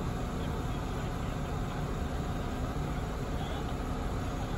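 Car engine idling: a steady low rumble with an even hiss over it.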